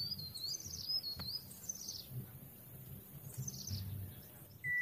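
Small birds chirping: a high warbling call at the start, then a few thin downward-sliding chirps, and a steady whistled note starting near the end.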